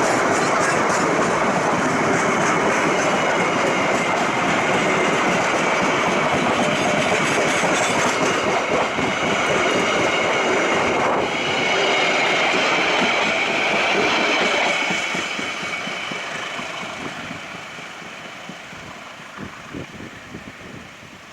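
Passenger train passing close by, wheels running on the rails with a high, steady whine. It fades away over the last several seconds as the train moves off.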